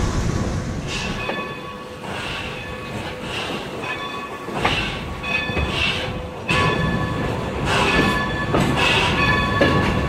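A steam-hauled train rolling on the rails, its steel wheels squealing in several steady high tones that swell and fade over the running rumble, with a few sharp knocks.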